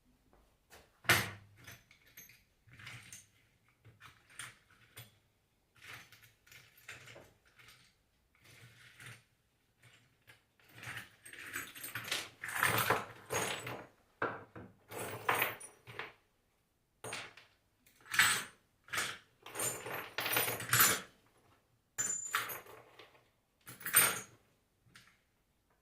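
Irregular metallic clinks, knocks and scrapes of a Nissan Kicks alternator and hand tools being handled on a workbench, with two denser stretches of handling noise a little under halfway through and again later.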